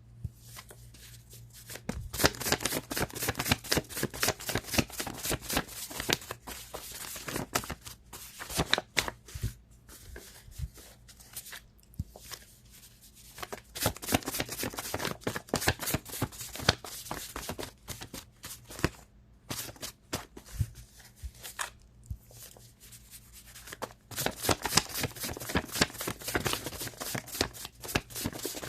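Tarot cards being shuffled by hand: a rapid, dense clatter of cards in three long spells with short pauses between them.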